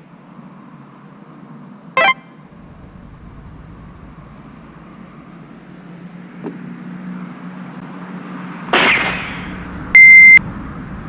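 A sharp click about two seconds in and a short hiss later, then one loud, pure electronic beep of about half a second near the end.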